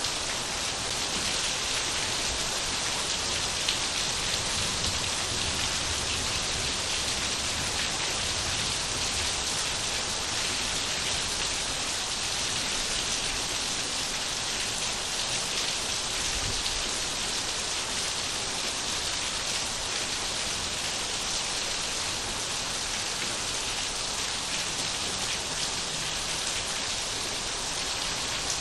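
Steady rain falling and pattering on surfaces, a continuous even hiss of droplets.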